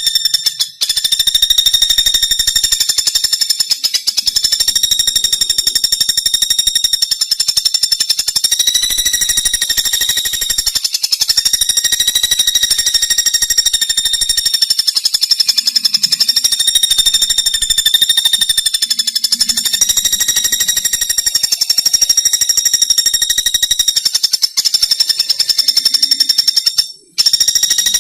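Pelatuk bawang woodpecker calling in a long, very rapid, high-pitched rattling trill on an almost steady pitch. It goes on nearly without pause, with short breaks about a second in and near the end.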